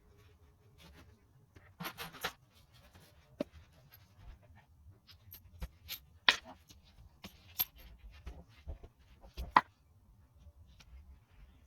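Metal tools and engine parts being handled during engine rebuild work: scattered clicks, knocks and a few bright metallic clinks, the loudest about six and a half and nine and a half seconds in.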